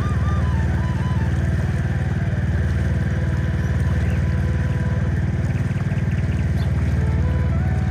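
Boat engine running steadily with a fast, even firing pulse, while a melody plays faintly over it.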